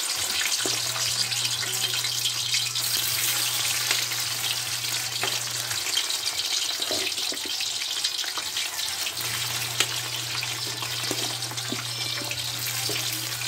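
Fishballs frying in hot oil in a wok: a steady sizzle with scattered small pops and clicks.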